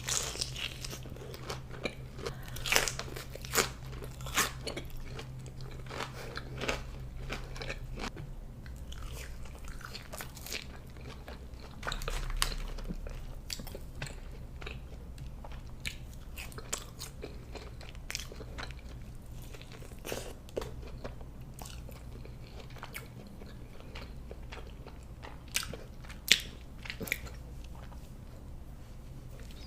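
Close-miked eating of a bacon smash burger: irregular bites and chewing with crunchy, wet mouth clicks, the loudest bites about three to four seconds in and again near the end, over a low steady hum.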